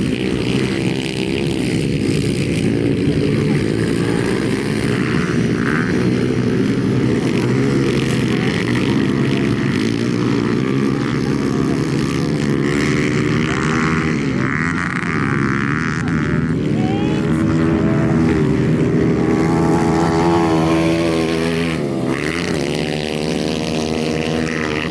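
Several dirt bike engines revving and shifting together on a motocross track, their pitches rising and falling against one another with no break.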